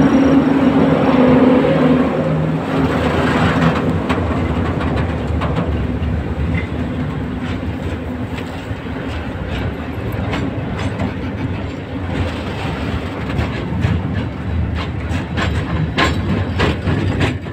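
Freight train passing at speed. The electric locomotive goes by first with a steady hum; then the wagons roll past with a low rumble and repeated clacks of wheels over rail joints.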